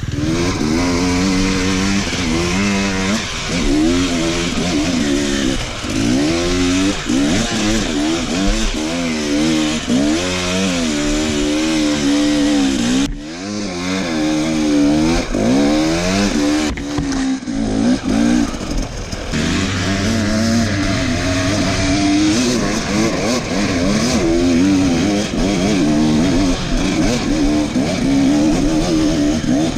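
Enduro dirt bike engine revving hard, its pitch rising and falling again and again as the throttle is worked on a climb. The sound breaks off sharply for a moment twice, about 13 and 17 seconds in.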